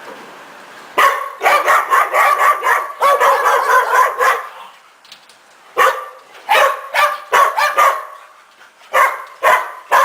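Several dogs barking together in a dense, overlapping chorus, coming in three bouts: from about a second in, again around six seconds, and once more near the end.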